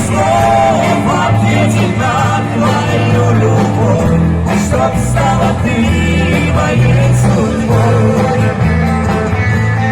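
Live pop-rock band music: a steady bass line under a wavering lead melody.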